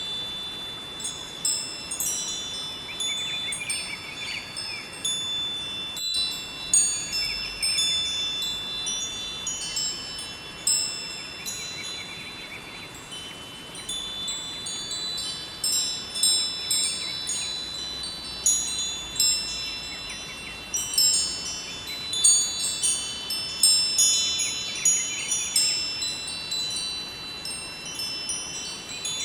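Metal wind chimes ringing irregularly, many high tones overlapping and fading, over a steady rushing of river water.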